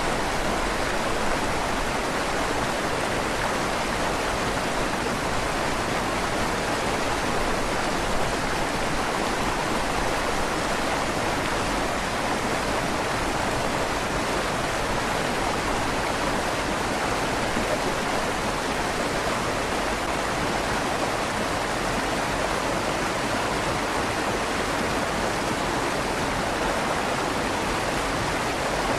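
River water rushing steadily through the tunnel under a stone bridge, its sound carrying a slight echo off the tunnel walls.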